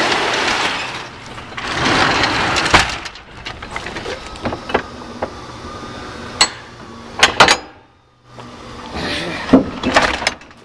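Someone climbing down out of a box truck body and walking to its rear: rustling handling noise, then a series of sharp knocks and footfalls on the wooden floor and metal, with clusters of knocks about seven seconds in and near the end.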